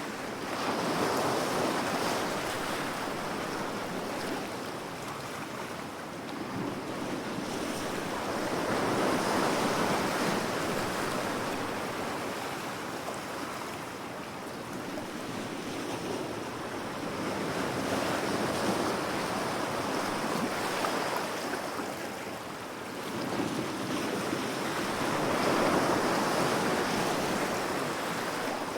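Ocean waves breaking and washing on the shore, a steady rush that swells and recedes in slow surges every several seconds, with some wind.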